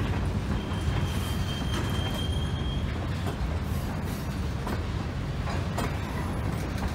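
Loaded covered hopper cars rolling slowly past on the rails with a steady low rumble. A thin, high wheel squeal starts about a second in and lasts about two seconds, and a few sharp clicks follow.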